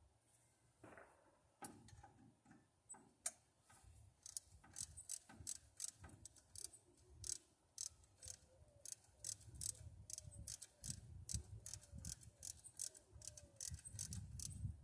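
Hand socket ratchet clicking in quick runs of strokes, several clicks a second, after a few scattered knocks in the first seconds.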